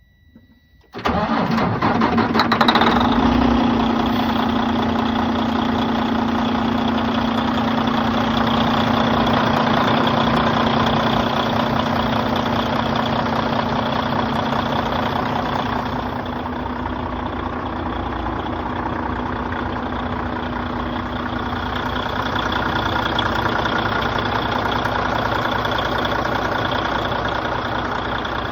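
The diesel engine of a 2014 Freightliner Conventional sleeper truck starts suddenly about a second in, then runs at a steady idle.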